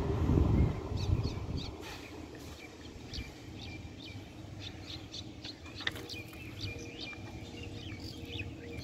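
Small birds chirping over and over in short, high calls. Under them, the low rumble of the distant EMU local train dies away in the first two seconds.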